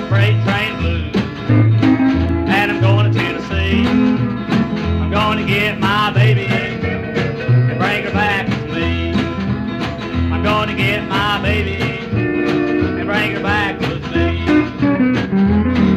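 Instrumental break of a country-blues song on acoustic guitar: a steady alternating bass under picked treble notes that bend in pitch.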